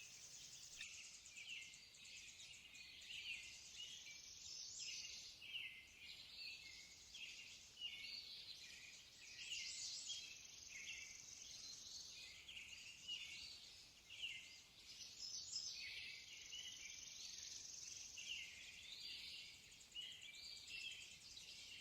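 Faint background birdsong: many small birds chirping and twittering in short, overlapping calls.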